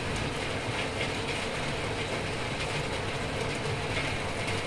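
Heavy thunderstorm rain pouring steadily, with irregular faint tapping of drops.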